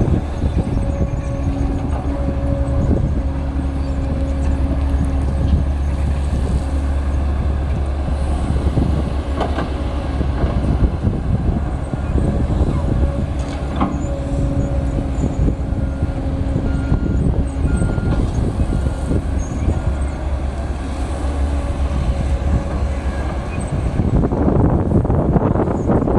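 Diesel engines of a Kobelco SK200 excavator and a dump truck working: a steady low drone with a few sharp knocks. Wind buffets the microphone near the end.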